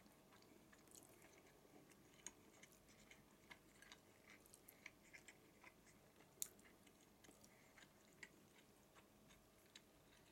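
Faint close-up chewing of soft food (taro, tuna and rice), with small mouth clicks and smacks scattered throughout and a sharper click about six seconds in.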